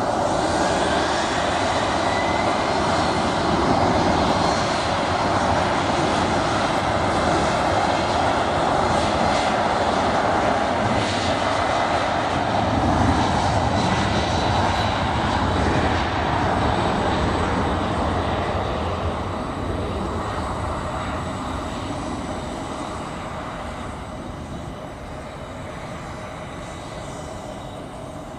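Embraer E190 jet's twin CF34 turbofans at takeoff power, a loud steady jet noise with a rising whine at the start, then fading away over the last ten seconds or so as the aircraft departs.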